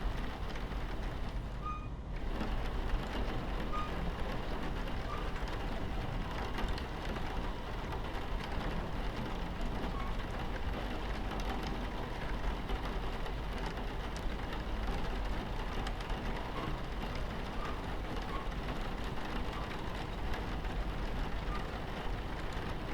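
Steady low rumble of a moving train with rain pattering on the carriage window, an even wash of sound with faint short pips scattered through it.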